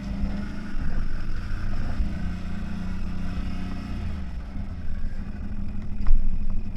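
CFMOTO 1000 off-road vehicle's engine running as it drives, its note dipping about four seconds in and then picking up again.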